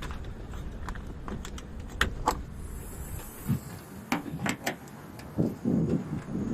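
A series of sharp clicks and knocks over a low rumble: two close together about two seconds in, three more around four seconds, then softer dull thuds near the end.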